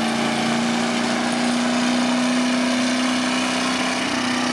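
Pulling truck's engine running hard at high revs under load, one steady loud tone whose pitch creeps slowly upward.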